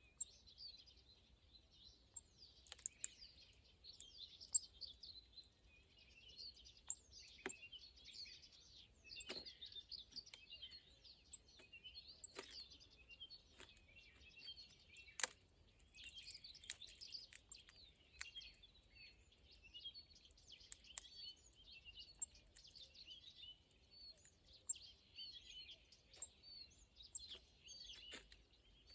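Small birds chirping continuously in a busy, overlapping chatter. Several sharp clicks or taps stand out, scattered through it.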